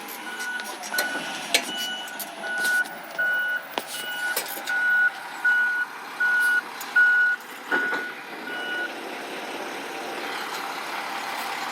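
Recycling truck's reverse alarm beeping about twice a second, stopping about nine seconds in, with a few sharp knocks along the way.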